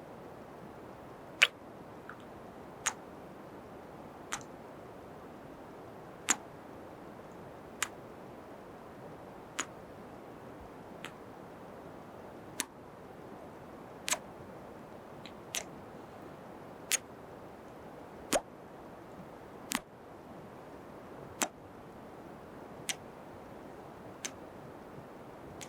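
Close-up kiss sounds into a microphone: short, sharp lip smacks about every second and a half, over a faint steady hiss.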